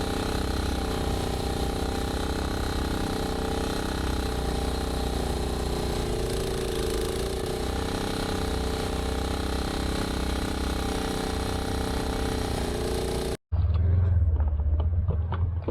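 Snowblower engine running steadily under load while clearing snow. About thirteen seconds in it cuts off abruptly and a different, deeper engine rumble takes over.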